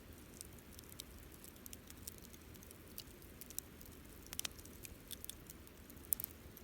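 Wood campfire crackling: irregular sharp pops and snaps over a soft low rumble, with a brief cluster of louder pops about four and a half seconds in and another near six seconds.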